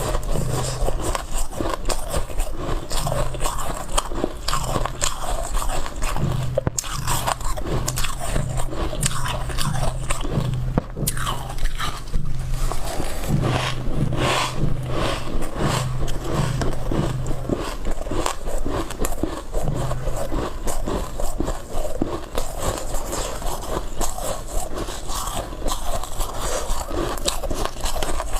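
Close-miked biting and chewing of white ice: a dense, continuous run of crunches and crackles as the ice is bitten through and ground between the teeth.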